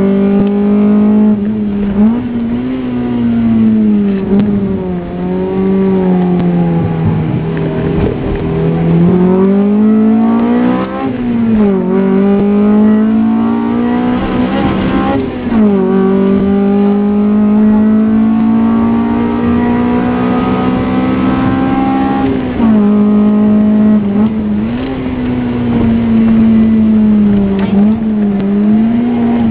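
Honda Civic SiR's B16 four-cylinder engine heard from inside the cabin, driven hard on a track. The revs climb and fall again and again as it accelerates, shifts and slows for corners.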